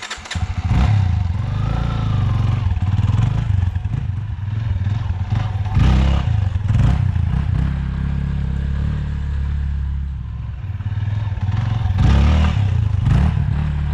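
Yamaha XT250 trail bike's single-cylinder four-stroke engine running under throttle, with louder surges of throttle about six seconds in and again about twelve seconds in.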